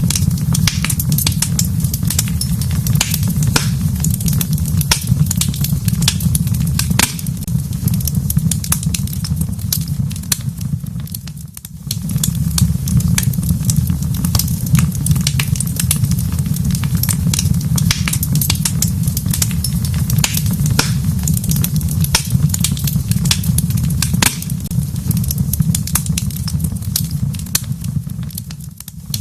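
Wood fire crackling in a fireplace: many sharp pops and snaps over a steady low rumble of the flames. The sound briefly drops away about eleven seconds in and again near the end.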